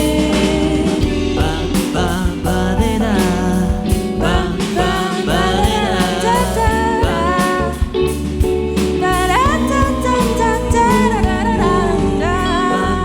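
Live band playing a pop song: a sung melody over bass and drums with a steady beat.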